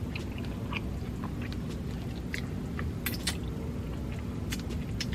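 Close-miked chewing of a mouthful of spicy fried fish with toast and grits: irregular soft wet mouth clicks and smacks, with two louder ones about three seconds in.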